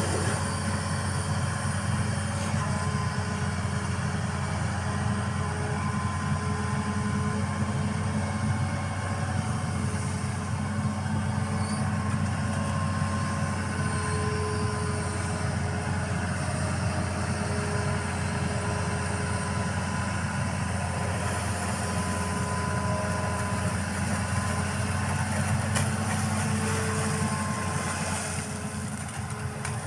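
Excavator's diesel engine running steadily, with faint higher tones that come and go above its hum. It eases off slightly near the end.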